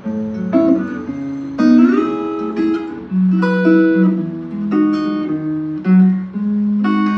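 Acoustic guitar playing an instrumental intro: picked and strummed chords that ring on and change every second or so.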